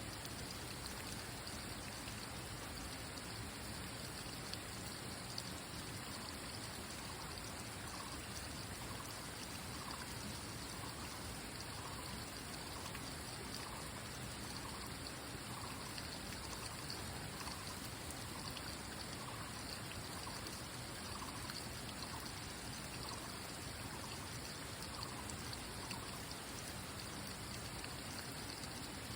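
Steady noise of running water. A faint sound repeats about once a second through the middle of the stretch.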